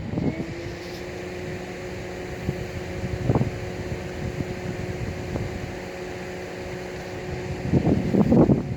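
SNCB Class 13 electric locomotives running with a steady electrical hum over a low rumble. A louder burst comes about a third of the way in, and several more come near the end.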